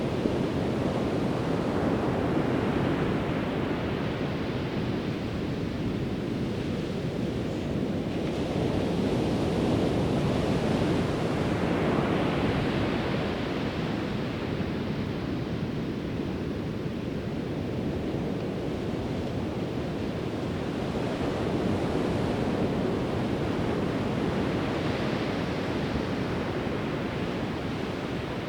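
Pacific Ocean surf breaking and washing in: a continuous rush of waves that swells and eases every several seconds.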